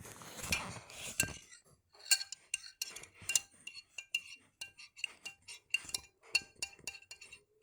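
A spoon clinking again and again against a dish, about three ringing clinks a second, after a second or so of rougher rattling and scraping at the start.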